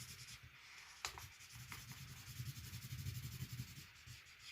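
A red marker scratching back and forth on paper as an area is coloured in, with a sharp tick about a second in. The marker is running dry.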